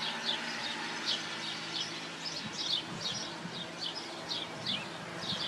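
Small birds chirping: short, high notes repeated irregularly, several a second, over a faint steady low hum.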